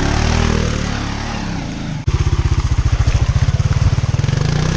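Honda four-wheeler (ATV) engine revving, its pitch rising and then easing off. After a sudden break about two seconds in, it runs steadily with a fast, even beat.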